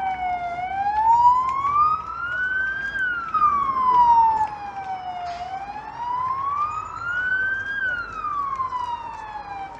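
Fire engine siren wailing, its pitch sliding slowly down and up again and again, each sweep lasting about two and a half seconds.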